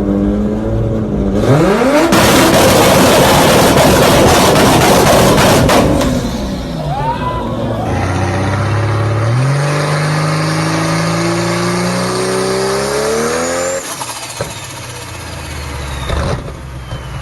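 High-powered turbocharged car engines accelerating hard, in several short clips: a loud full-throttle run for a few seconds, then an engine revving up with its note climbing steadily. A high whistle slides down in pitch near the end.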